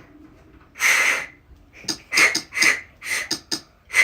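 A dog snorting: one longer snort about a second in, then a quick run of short, sharp snorts, about two or three a second.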